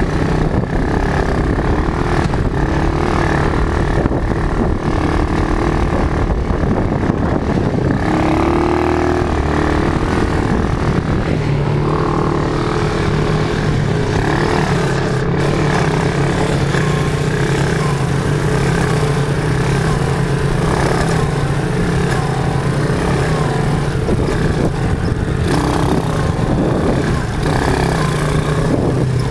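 Quad bike (ATV) engine running steadily, its pitch shifting slightly now and then.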